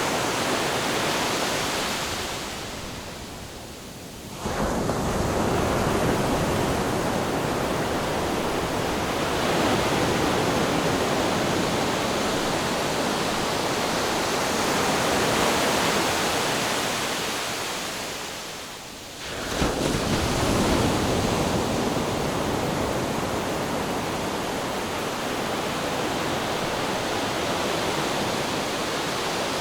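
Ocean surf: a continuous wash of waves. Twice it fades into a lull that ends in a sudden surge as the next wave breaks, once a few seconds in and again about two-thirds of the way through.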